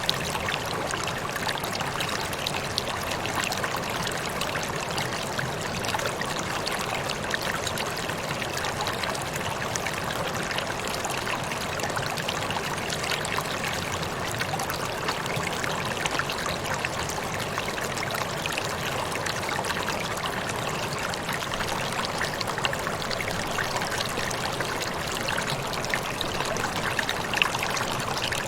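Small waterfall: water falling and splashing steadily, an even rushing with scattered small splashes.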